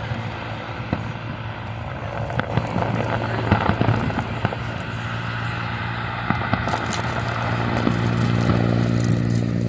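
Fireworks crackling and popping, many small pops scattered through, over a steady low hum.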